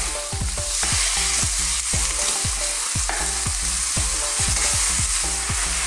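Chicken livers and chicken breast strips sizzling in hot oil in a nonstick frying pan, stirred with a wooden spatula that scrapes and knocks against the pan about three or four times a second.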